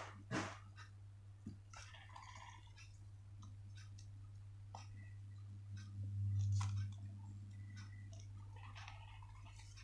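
Sheets of paper being handled and folded: scattered light clicks and short crinkly rustles over a steady low hum.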